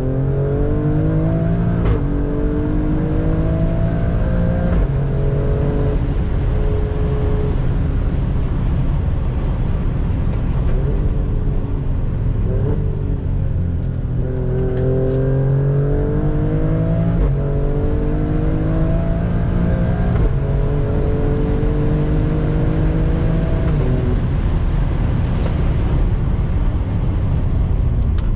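Alfa Romeo Stelvio Quadrifoglio's twin-turbo V6 and exhaust under hard acceleration, the engine note climbing through the revs and dropping back at each upshift. It pulls through several gears, settles for a few seconds, then accelerates through the gears again.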